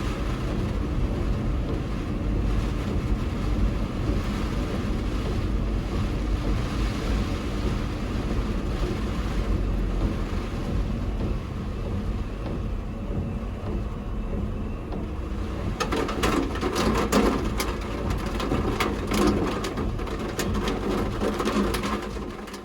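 A vehicle running with a steady low rumble, and a dense run of clicks and knocks over the last six seconds or so.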